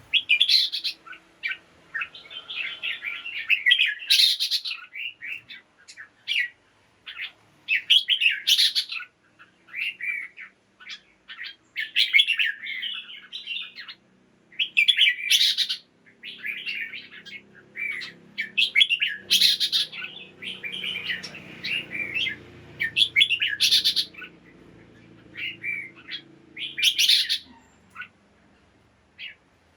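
Red-whiskered bulbuls singing: short, bright warbled phrases and chattering calls, repeated every second or two with brief pauses between.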